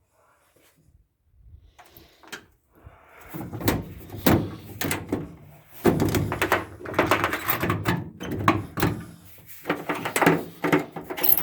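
Irregular knocks, thumps and clattering, close by and loud, starting a few seconds in after near silence.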